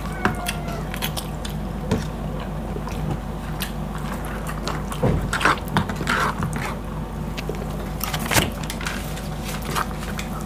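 Close-up eating sounds of people chewing boiled pork: wet chewing and lip smacks with many small clicks, and louder bursts of smacking about halfway through and again near the end, over a steady low hum.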